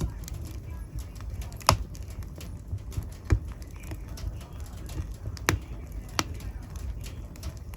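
Fire burning in a fireplace: a low steady rumble of flames with a few sharp crackling pops spaced irregularly through it.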